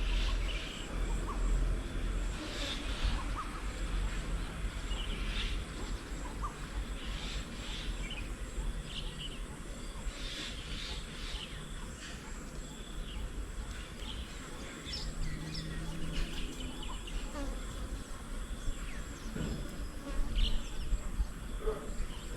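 Bees buzzing around a fruit-laden bird table, with birds giving short chirps and calls throughout, over a steady low background rumble.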